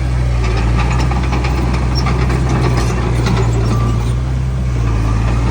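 Heavy diesel engine of earthmoving machinery running steadily with a deep, even drone, over light scattered metallic clatter.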